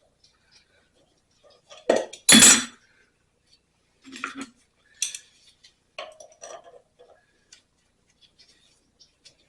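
Metal hand tools clattering and clinking as pliers are fetched and handled, with the loudest clatter about two seconds in followed by scattered lighter clinks.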